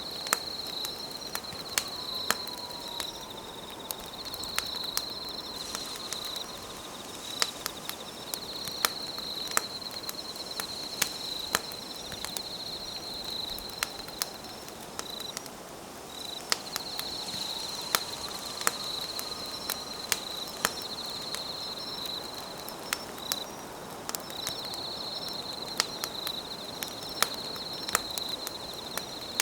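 Campfire crackling, with sharp pops every second or so, over night insects chirping in a high, steady trill that runs in long phrases with short breaks.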